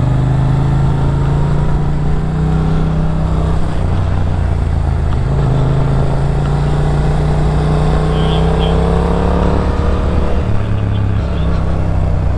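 A motorcycle engine running steadily while riding, heard from the bike. Its low drone shifts pitch a few times with the throttle.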